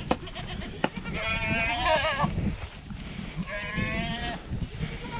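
Boer goats bleating, two wavering calls about a second long each.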